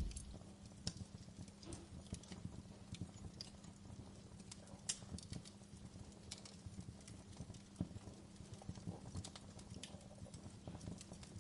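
Campfire crackling: irregular sharp snaps and pops of burning wood, some louder than others, over a faint low steady background.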